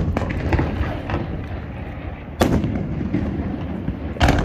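Aerial fireworks shells bursting: two loud bangs about two and a half seconds in and near the end, with smaller crackling bursts near the start, over a continuous low rumble of echoing explosions.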